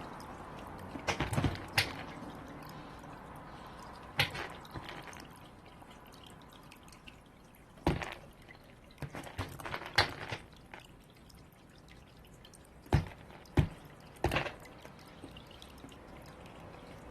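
Irregular sharp knocks and taps, some single and some in quick clusters, of a bird's beak pecking at hard balls.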